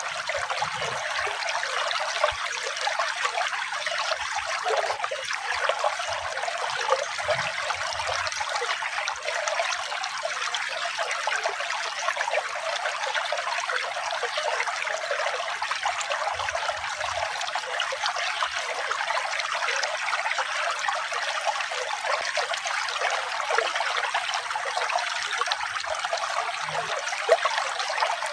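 Running water trickling steadily, an even splashing hiss with no pauses.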